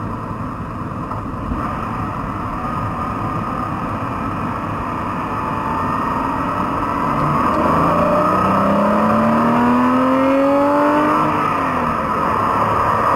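Porsche flat-six engine accelerating in second gear, heard from inside the cabin, muffled through a camera's waterproof dive case, over steady road noise. The engine note rises in pitch and grows louder for several seconds in the second half, then falls away briefly near the end.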